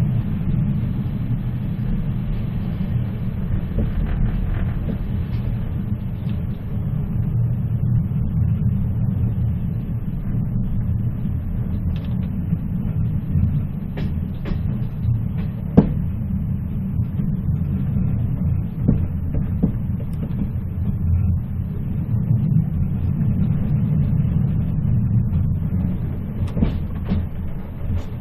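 Moving train running on the rails: a steady low rumble with scattered sharp clicks and knocks, one louder click about sixteen seconds in.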